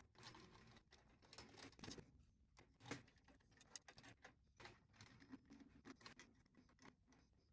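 Near silence: quiet room tone with faint, scattered small clicks and taps, the clearest about three seconds in.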